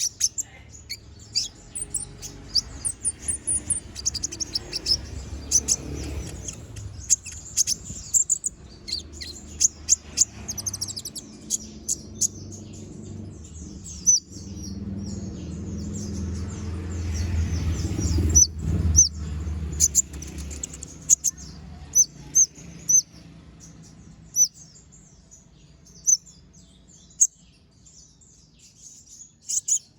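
Kolibri ninja (konin) sunbird singing a rapid, chattering song of short, sharp, high chirps and quick trills, packed closest in the first half and sparser near the end. A low rumble of background noise swells under the song midway and then fades.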